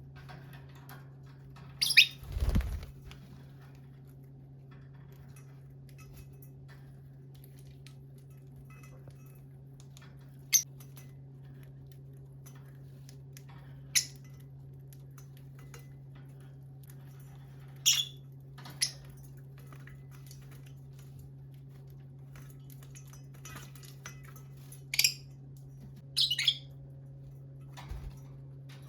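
Lovebirds giving short, sharp chirps, about seven scattered through, over a steady low hum. About two seconds in, a call comes with a louder, lower thump.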